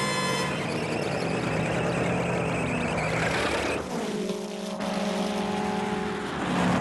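Car engine at speed on a film soundtrack: a rushing engine and road noise, then, about four seconds in, the steady hum of an approaching car that grows louder and rises slightly in pitch near the end. A music cue ends about half a second in.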